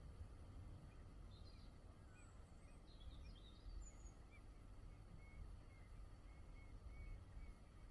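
Near silence: a faint low rumble with small birds chirping faintly, including a run of short high notes in the second half.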